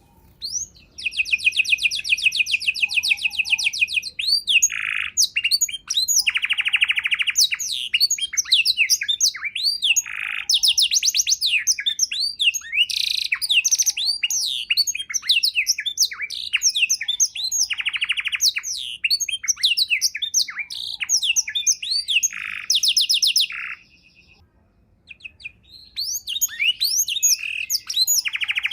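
Domestic canary singing a long, varied song: fast rolling trills mixed with quick rising and falling chirps. The song breaks off for about a second and a half near the end.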